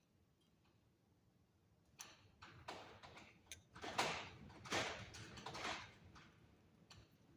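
Rustling, scraping handling noises of small objects and materials being moved about on a work surface, starting about two seconds in as a run of short scrapes.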